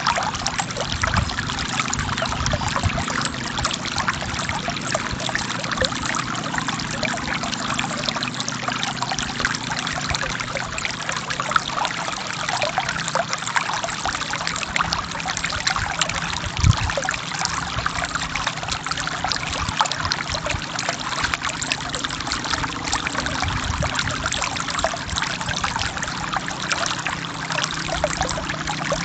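Water of a forest stream running and splashing over rocks, a steady rushing with many small splashes.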